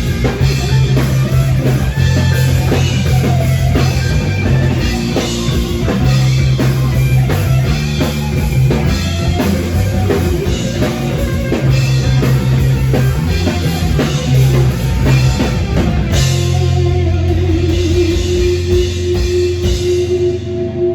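Rock band playing live without vocals: drum kit, electric guitar and bass. About sixteen seconds in the drums stop and held chords ring on, fading out near the end.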